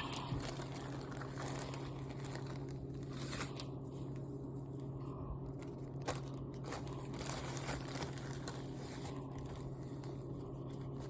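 Paper microwave popcorn bag crinkling and rustling as it is handled with the seasoning in it, with scattered small crackles over a steady low hum.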